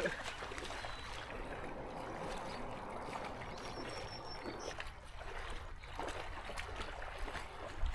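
Water sloshing and trickling gently, with a few small splashes and ticks.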